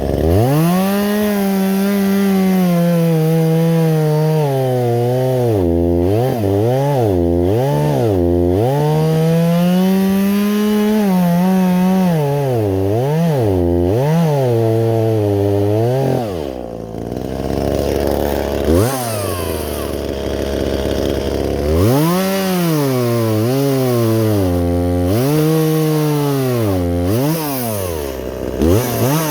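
Two-stroke chainsaw cutting wood at high revs, its engine note repeatedly dipping under load and picking back up as the chain bites. About halfway through it drops briefly toward idle, then revs up and cuts again.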